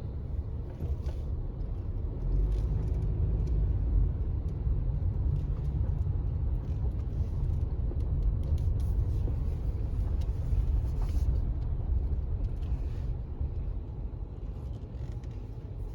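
Car running, heard from inside the cabin: a steady low rumble that grows louder about two and a half seconds in.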